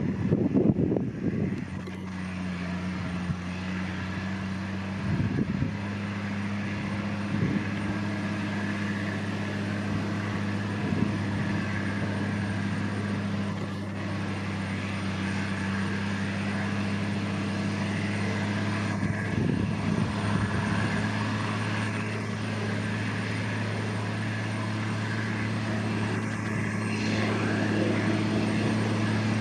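Case IH Quadtrac 535 tractor's diesel engine running steadily under load as it pulls a cultivator, a constant low drone. Wind buffets the microphone in the first couple of seconds.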